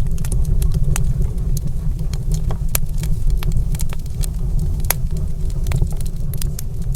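Wood fire in a stone fireplace crackling, with frequent sharp irregular pops over a steady low rumble.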